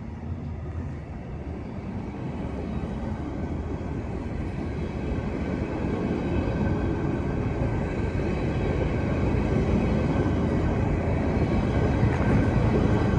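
A train approaching on the line, its rumble growing steadily louder.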